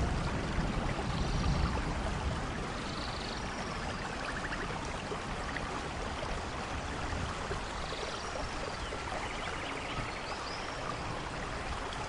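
Steady soft rain falling, with the tail of a low thunder rumble dying away in the first second or two and a few faint high chirps scattered through it.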